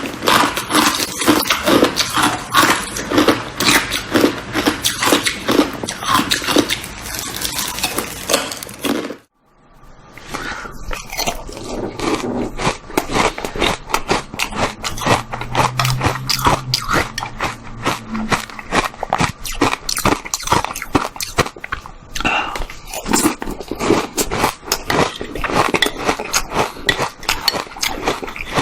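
Close-up crunching and chewing of ice: rapid, dense crunches as the ice is bitten and ground between the teeth. The sound cuts out briefly about nine seconds in, then the crunching resumes.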